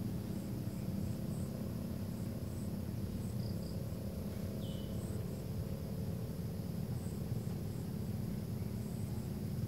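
Outdoor ambience: a steady low rumble with faint, irregular high chirps throughout and one short falling call about five seconds in.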